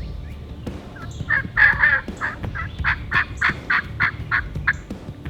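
Turkey calling: a series of about a dozen rough yelps, about four a second. The first ones are loudest and run together, and the series fades toward the end.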